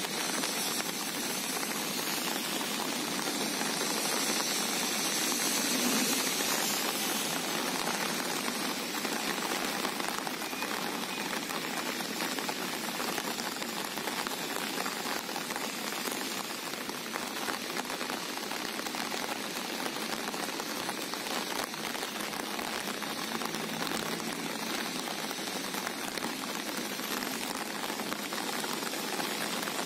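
Steady rain falling: a dense, even hiss of drops.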